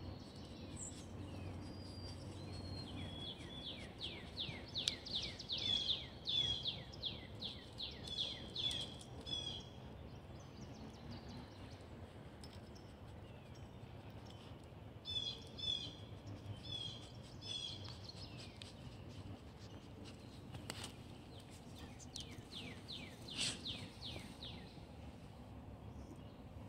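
A songbird singing: three phrases of quick, repeated downward-sliding high notes, over a steady low background hum.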